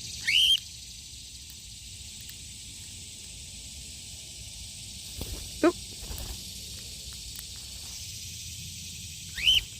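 Cockatiel calling: two loud, short whistles that rise sharply in pitch, one at the start and one near the end, with a fainter, lower rising call about halfway, over a steady high hiss of outdoor background.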